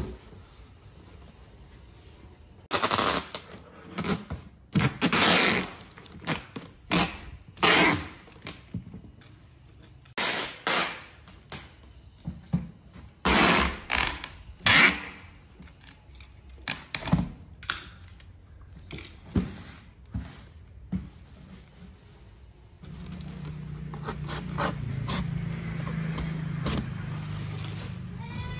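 Packing tape being pulled off its roll in a series of loud short rips and pressed onto a cardboard box, with lighter cardboard clicks and rustles between. In the last few seconds a low steady hum comes in.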